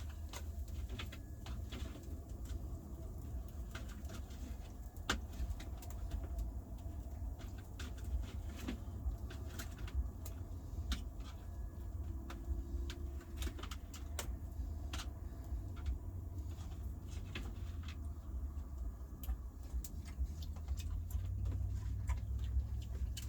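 Scattered light clicks and taps of cutlery on a plate as a cooked steak is cut and eaten, over a steady low rumble.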